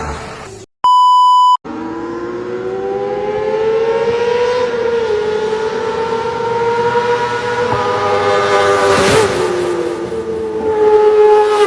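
A short electronic beep about a second in, then a Kawasaki ZX-25R's 249 cc inline-four running at high revs as it approaches, its note climbing. It passes about nine seconds in with a drop in pitch and pulls away.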